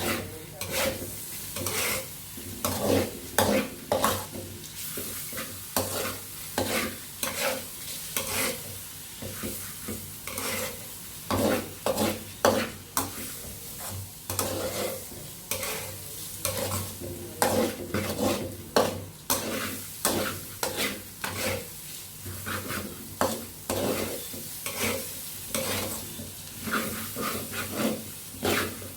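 A utensil stirring and scraping against a cooking pot in repeated strokes, roughly one to two a second, over a steady sizzle of food cooking.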